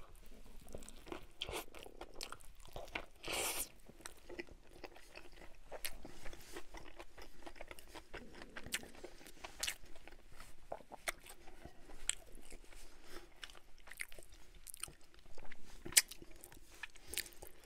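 A person biting into and chewing a mouthful of Whopper burger, with a steady scatter of small mouth clicks and smacks.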